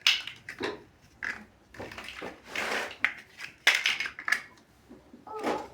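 Plastic building bricks clicking and clattering as pieces are handled and pressed together, with sharp snaps right at the start and just under four seconds in, and a stretch of rustling clatter between.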